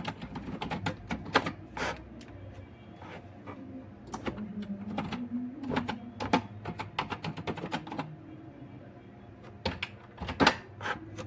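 Typing on a computer keyboard: irregular key clicks in quick runs, with a pause about eight seconds in, over a faint low steady hum.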